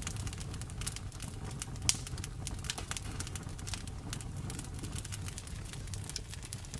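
Wood fire crackling, with frequent small pops and one sharper pop about two seconds in, over a steady low rumble.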